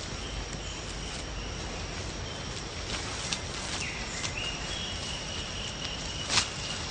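Rainforest ambience: a steady high-pitched insect drone with several short, flat whistled calls from birds or insects, and a few sharp clicks or snaps, the loudest near the end.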